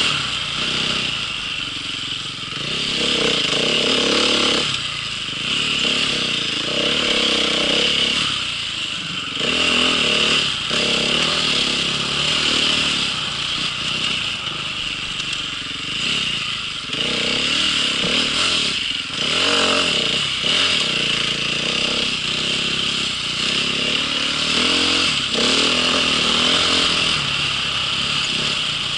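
Off-road vehicle engine running under way, its pitch rising and falling every second or two as the throttle is worked.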